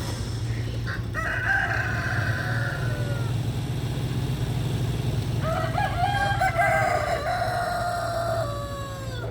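Rooster crowing twice, the second crow longer and dropping in pitch at its end, over a steady low hum.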